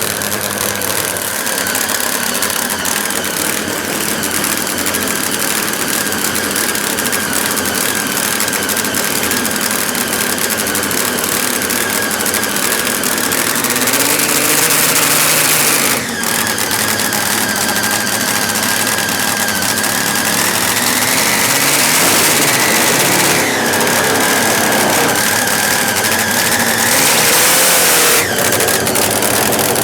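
Drag-racing motorcycle engine running loudly, revved up in short stretches about halfway through, again a few seconds later, and near the end.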